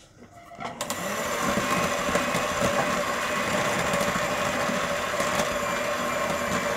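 Electric mixer running steadily at a constant speed, beating flour into a thick cake batter; it starts about a second in.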